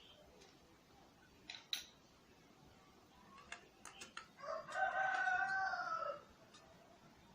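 A rooster crowing once, one long call of under two seconds about halfway through, preceded by a few short, sharp chirps or clicks.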